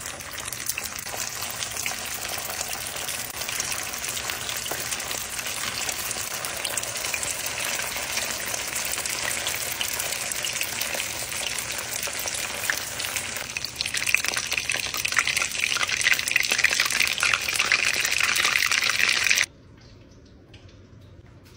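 Soup dumplings deep-frying in oil in a cast-iron skillet: a steady crackling sizzle that grows louder and sharper about fourteen seconds in, then cuts off suddenly near the end.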